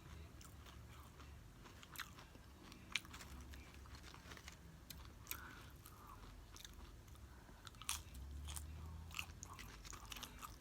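Close-up chewing and crunching of nachos, with scattered short crisp crunches and wet mouth clicks.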